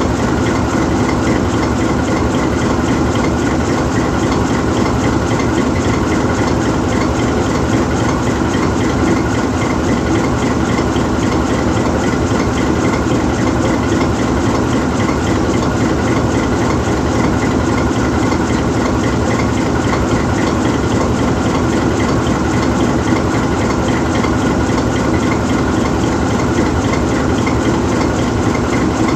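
GE U20C diesel-electric locomotive idling while standing still, its 12-cylinder GE FDL diesel engine running steadily with no change in speed.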